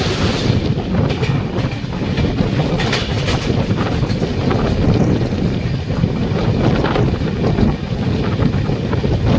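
Passenger train running on the rails: a loud, steady rumble of wheels and coaches with a few sharp clacks as wheels cross rail joints.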